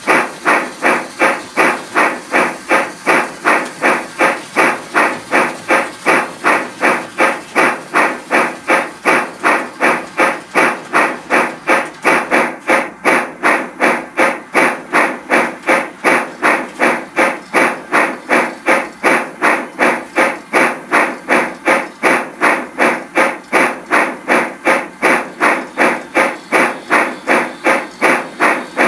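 Steam locomotive exhaust chuffing at a quick, even beat of roughly three chuffs a second, each chuff with a sharp hiss of steam, holding one unchanging pace.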